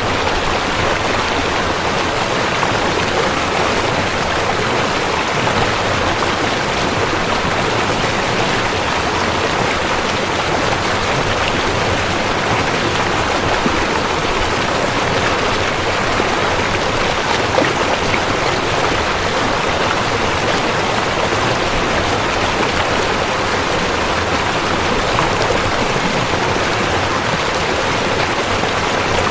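Rushing river: a steady, unbroken rush of flowing water.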